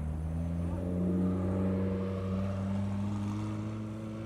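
McLaren 765LT's twin-turbo V8 through a Ryft aftermarket exhaust, running at low speed. Its note climbs over the first second, holds and eases slightly, then climbs again near the end.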